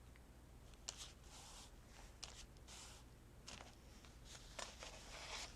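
Near silence with a faint, steady low hum and a few soft clicks and short rustles of paper and craft pieces being handled.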